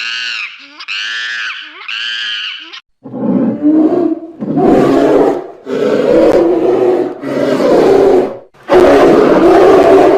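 Animal calls: a high-pitched call repeated three times, then after a brief pause a run of five deep, loud roaring calls from a large animal, each a second or more long, the last the longest.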